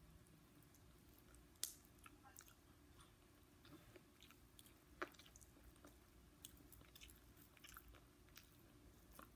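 Faint chewing of fried chicken, with scattered small wet clicks and crackles as the meat is pulled apart by hand; two sharper clicks stand out, about a second and a half in and about five seconds in.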